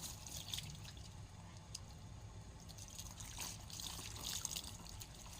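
Water trickling and dripping faintly, with small splashes, as a cat is washed.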